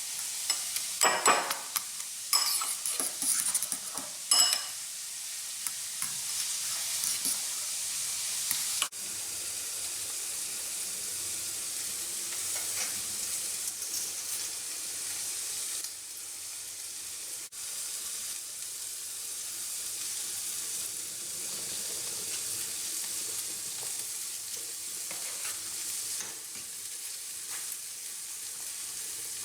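Pork chorizo sizzling in a frying pan, a steady high hiss of frying fat. Over the first few seconds a utensil clatters and scrapes against the pan as it is stirred.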